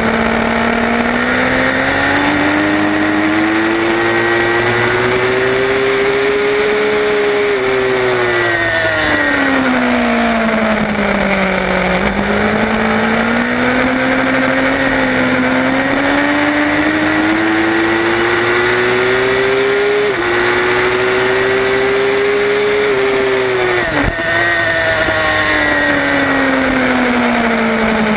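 Racing motorcycle's engine heard from an onboard camera, held in second gear through the corners of a road course: its pitch climbs steadily under throttle, falls away as the throttle eases, climbs again, and drops sharply for a moment near the end.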